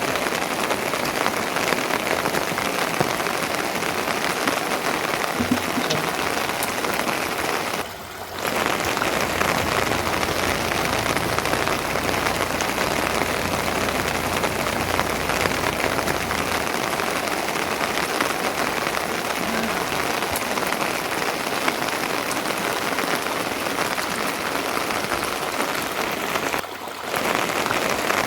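Steady rain falling, a dense even hiss that drops away briefly twice.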